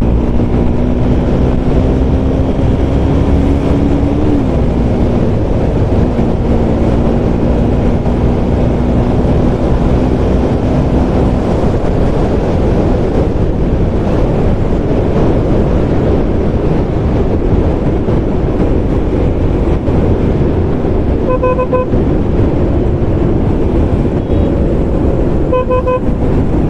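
Motorcycle riding along a road: steady engine hum under loud rushing wind and road noise, the engine pitch rising briefly about four seconds in. Near the end a vehicle horn beeps in two short bursts.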